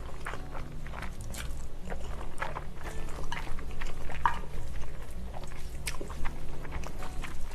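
Close-up eating sounds: chewing with frequent wet mouth clicks and smacks, over a steady low hum.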